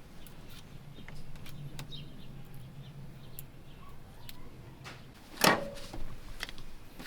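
Scattered small clicks and knocks of parts being handled and fitted back onto a rebuilt coilover, with one sharp knock about five and a half seconds in.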